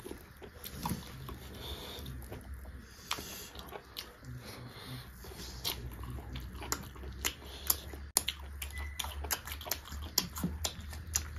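Close-miked mouth sounds of people eating pork with mushrooms and rice: wet chewing with many short, sharp clicks and smacks, coming more often in the second half.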